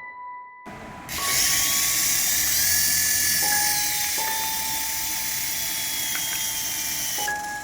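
A small electric toy motor whirring at a high pitch, starting about a second in and running steadily until shortly before the end. Soft background piano music continues underneath.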